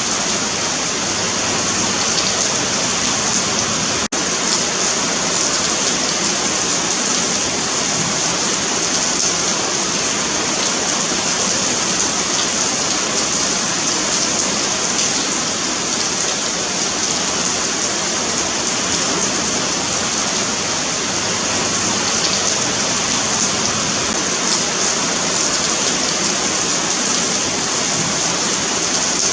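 Steady rain falling on a paved sidewalk: an even, unbroken hiss of drops, brightest in the high range.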